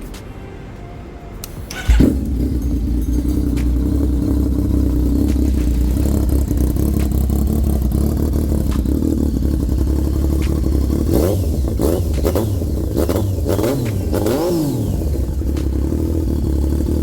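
Yamaha MT-09 Tracer's three-cylinder engine firing up with a sharp bang about two seconds in through an aftermarket SC-Project exhaust, then idling steadily. A little past the middle it is revved in several quick blips, rising and falling, before dropping back to idle.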